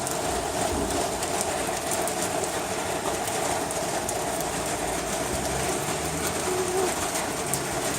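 Heavy rain falling steadily, with many small ticks of drops striking close by.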